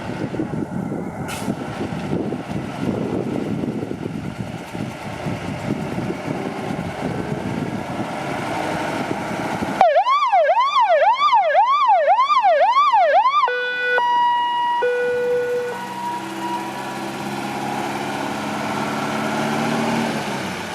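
A passing fire truck's siren wails up and down quickly, about two sweeps a second, for a few seconds partway through, then stops abruptly. Two short steady-pitched horn blasts follow. Before it there is a rumble of truck engines and wind on the microphone, and lower steady tones sound near the end.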